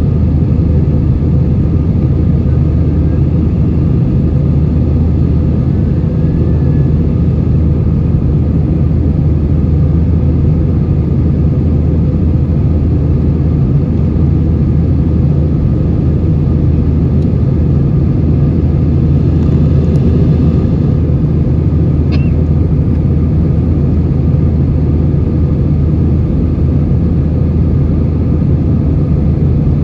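Steady cabin noise of an Airbus A320-232 in flight: a constant low rumble from its IAE V2500 engines and the airflow, heard from inside the cabin.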